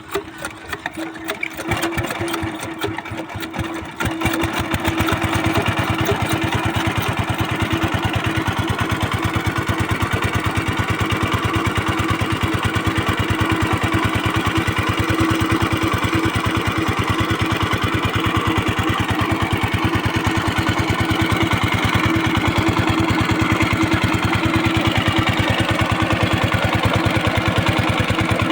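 Diesel engine of a water pump firing unevenly for the first few seconds, then settling about four seconds in into steady running with a fast, even beat.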